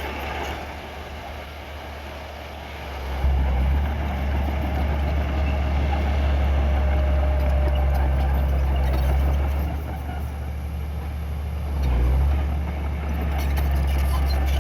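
Heavy diesel engine of earthmoving equipment running, a low steady drone that grows louder about three seconds in, eases off near ten seconds and swells again briefly about two seconds later.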